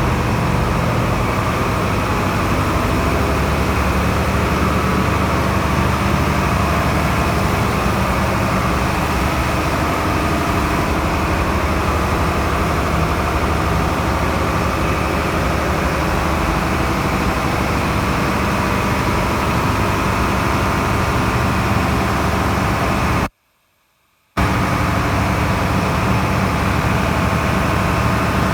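Marine diesel engine running steadily, a loud even drone with a deep low hum. The sound cuts out completely for about a second near the end, then comes back the same.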